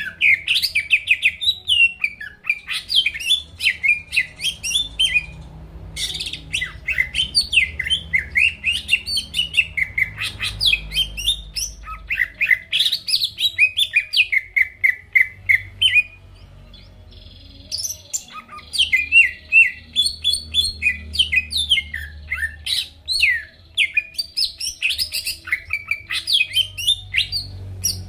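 Cucak ijo (green leafbird) singing a long, rapid run of sharp chirps, whistles and quick up-and-down slurs, pausing for a couple of seconds about two-thirds of the way through before starting again. A faint low hum runs beneath.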